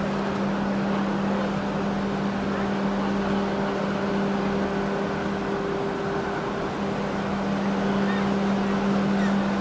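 A boat's engine running with a steady droning hum, over a constant wash of water and wind noise.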